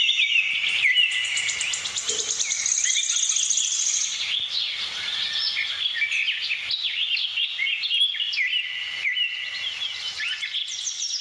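Budgies chattering and warbling continuously in a dense run of overlapping chirps, with a fast high trill in the first few seconds.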